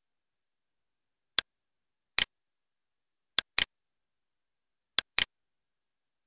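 Computer mouse clicks, three times a single click followed a moment later by a quick double click, with dead silence between.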